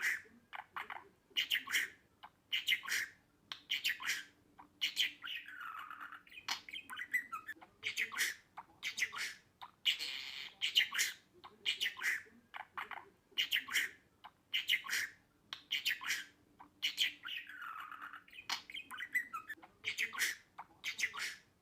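Budgerigar chattering: a quick run of short, sharp chirps and squawks with a few longer, dipping warbles in between.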